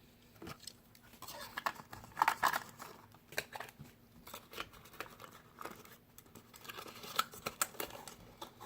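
Plastic blister packaging and a cardboard collector box being handled, with irregular crinkling, rustling and small sharp clicks; the loudest cluster comes about two seconds in.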